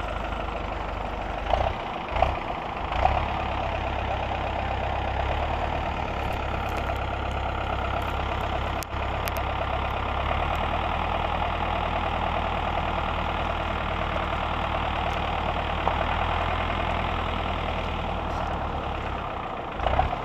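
Tractor engine running steadily, with a few short knocks in the first few seconds.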